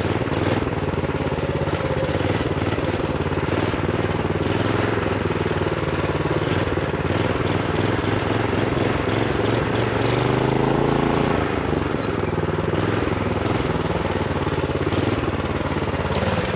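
Honda GX390 single-cylinder four-stroke engine on a minibike running under load at low, throttle-stop-limited revs, its pitch swelling up and back down once about two-thirds of the way through.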